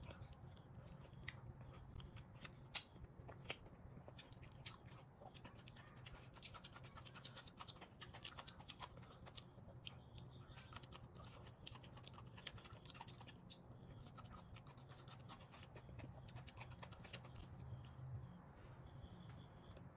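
Quiet chewing and mouth sounds of someone eating steak and asparagus, a run of small clicks with two sharper ones about three seconds in, over a low steady hum.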